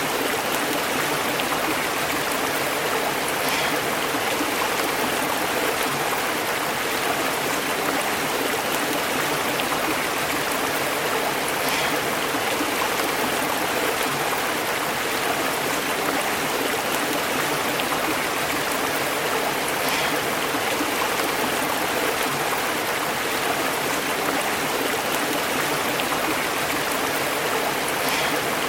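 Stream water flowing and bubbling over rocks, a steady babbling rush with small splashes now and then.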